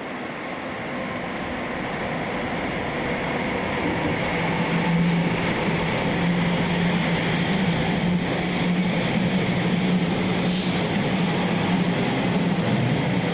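Train running, growing louder over the first few seconds and then holding steady, with a low steady hum underneath.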